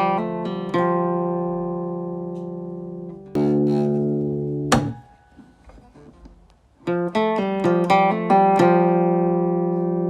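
Acoustic guitar playing: runs of quickly plucked notes and chords left to ring. There is a sharp click near the middle and a short pause, then the picking resumes.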